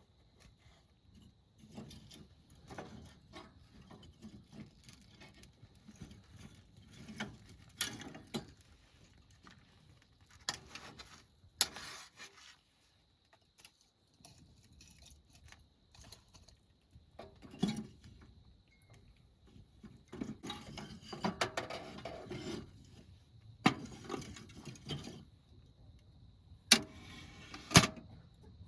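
Intermittent clinks, knocks and rustling of small objects being handled, in scattered short bursts, with two sharp loud clicks near the end.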